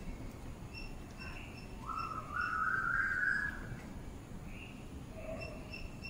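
Small birds chirping in short repeated high notes, with one louder, drawn-out whistle-like note that rises at its start and lasts almost two seconds, about two seconds in.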